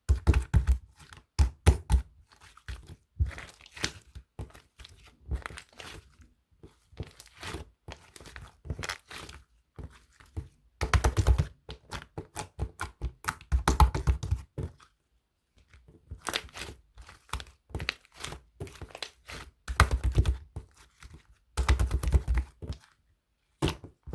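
Close-up crunching and crinkling noises with dull thumps, coming in irregular clusters of sharp crackles with short pauses between them.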